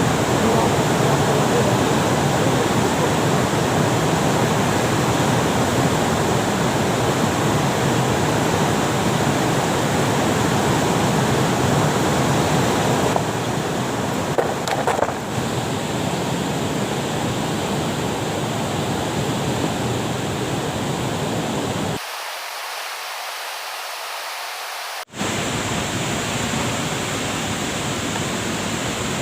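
Steady rush of a waterfall, a dense even roar of falling water. It shifts abruptly in tone about 13 and 22 seconds in, sounding thinner and lighter for a few seconds after the second shift, and drops out for an instant about 25 seconds in.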